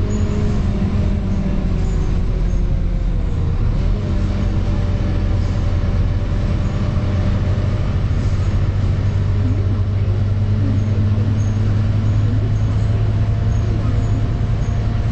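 Scania K230UB double-decker bus's diesel engine running under way. Its pitch drops a little over the first few seconds, then holds steady. The low drone grows stronger in the second half.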